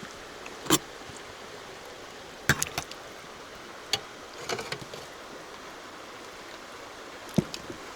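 Steady rush of a mountain river, with a few sharp clicks scattered through, the loudest three near the start, in the middle and near the end.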